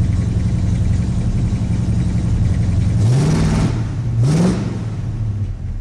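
A 1979 Pontiac Firebird's stroker V8 idling steadily, then revved in two quick blips, about three and four seconds in, each rising sharply in pitch and dropping straight back to idle.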